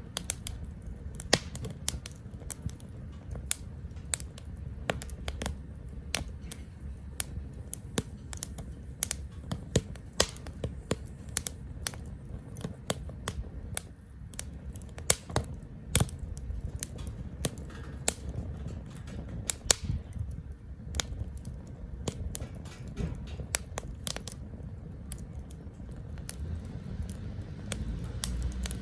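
Wood fire crackling and popping in a small Captain Stag Kamado Smart Grill B6, with irregular sharp snaps of burning wood over a steady low rumble of the flames.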